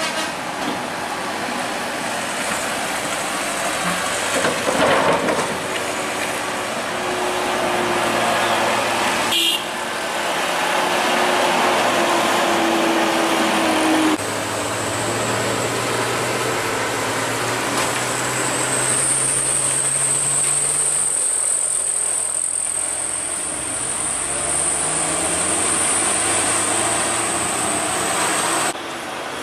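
Trucks running past on a road, engines labouring, with continuous traffic noise.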